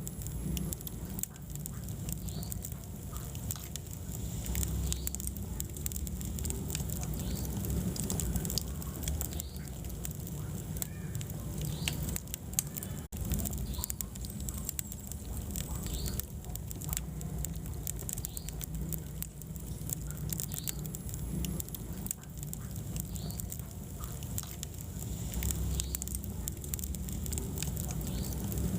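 Wood fire burning in a fireplace: a low steady rumble of the flames with scattered crackles and pops, and now and then a faint short whistle from the burning wood. The sound cuts out for an instant about halfway through.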